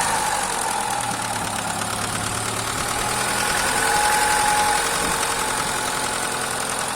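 Freshly rebuilt Daewoo 1.4-litre car engine idling steadily just after starting.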